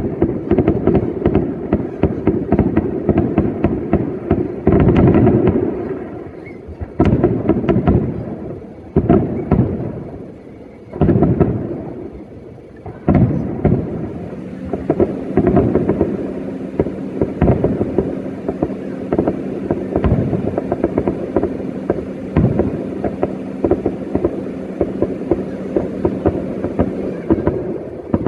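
New Year fireworks going off in dense, rapid, overlapping bangs and crackles, with a few short lulls in the middle. A steady low hum runs beneath the bangs in the second half.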